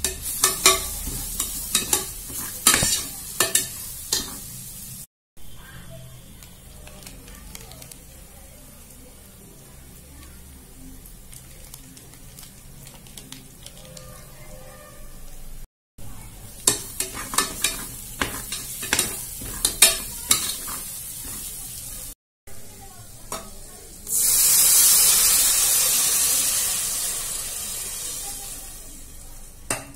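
Onions and spices frying in oil in a steel pot, with a spoon scraping and clicking against the pot as it is stirred. A few seconds before the end, water poured into the hot pot sets off a loud hiss that slowly fades.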